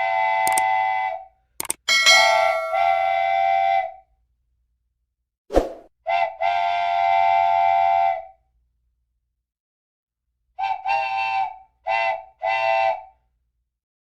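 Vehicle horn sounding a chord of several close tones: three long blasts, then four short toots near the end. Sharp clicks come just before the first blasts.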